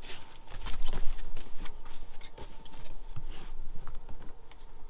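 A dog climbing up a seat ramp into a van's bed: irregular clicks and knocks of claws and paws on the seat and platform, busiest about a second in.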